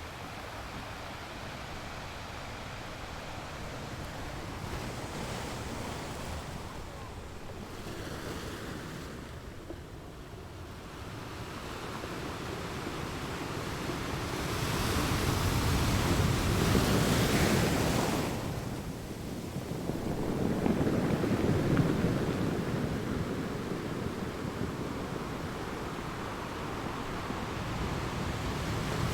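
Sea waves surging and washing in, rising and falling in swells. The largest swell comes about halfway through, and a smaller one follows a few seconds later.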